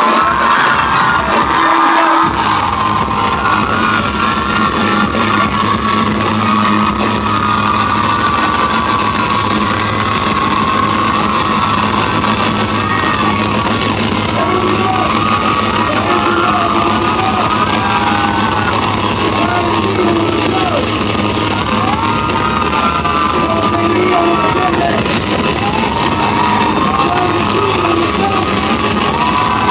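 Concert crowd screaming and cheering in a large hall over loud music. Many high voices rise and fall over steady low tones.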